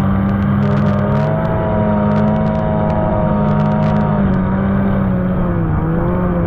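Two-stroke snowmobile engine running at steady speed under load, easing off a little about four seconds in.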